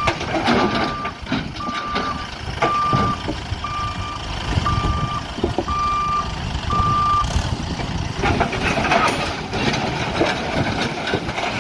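Reversing alarm on a JCB backhoe loader beeping steadily, about once a second, over its running diesel engine; the beeping stops about seven seconds in while the engine carries on, louder and rougher near the end.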